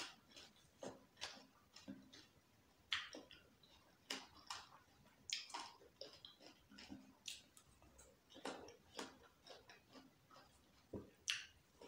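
Watermelon being chewed: short crunches at an irregular pace, about two a second.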